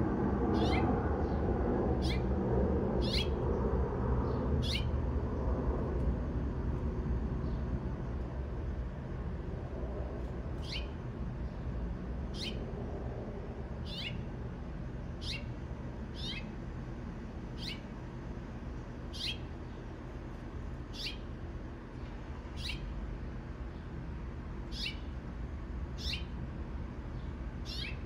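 A bird repeating a short, high, down-slurred call every second or two, with a pause of about five seconds near the start, over a low background rumble that fades over the first several seconds.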